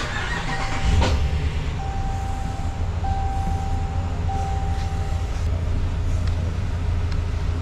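Dodge RAM 1500's 5.7 HEMI V8 cranked and started, catching about a second in and settling into a steady idle, just refilled with fresh oil. A warning chime sounds four times in long, even tones over the first few seconds.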